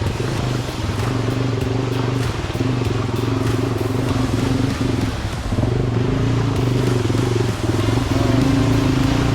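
Dual-sport motorcycle engine running under load, its note mostly steady but dipping briefly several times as the throttle comes off and back on, with rough noise from the ride over it.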